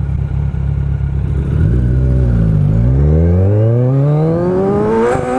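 A 2016 Kawasaki Ninja 1000's inline-four engine idles, then pulls away from a standstill with the revs rising steadily for about three seconds. The pitch drops sharply about five seconds in as it changes up a gear.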